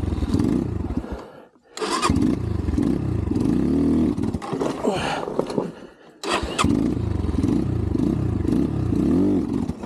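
Xpro Templar X 250cc dirt bike engine revving, stalling about a second and a half in and again about six seconds in, and starting again right away each time. The stalling comes from a carburettor idle set too low, which the rider says needed the idle screw opened.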